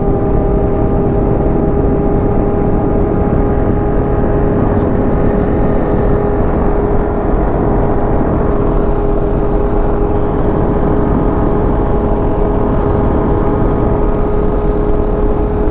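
Motorcycle cruising at a steady road speed: the engine holds one unchanging note over a constant rush of wind and road noise.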